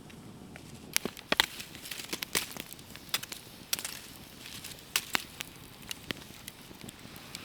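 Wood campfire crackling, with irregular sharp pops, the loudest about a second and a half in.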